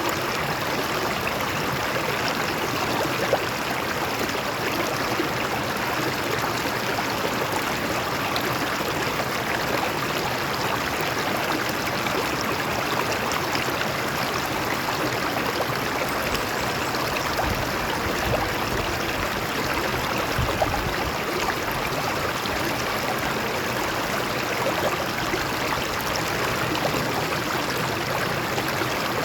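A stream running steadily over rocks, with an even rushing sound and small splashes and gurgles.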